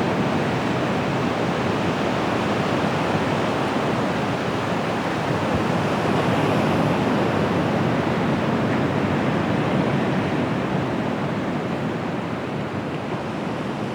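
Surf of the Bay of Bengal washing steadily onto the beach: a continuous rushing of waves with no separate crashes. It swells a little midway and eases off toward the end.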